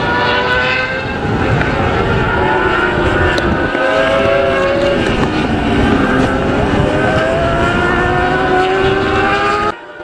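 Several racing motorcycle engines running hard, their pitches rising and falling against each other as they accelerate and change gear. The sound cuts off abruptly near the end.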